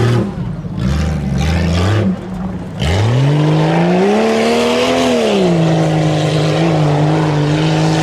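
Tuff truck's engine revving in short bursts, then climbing in pitch about three seconds in, easing back a little past the five-second mark and holding a steady high rev.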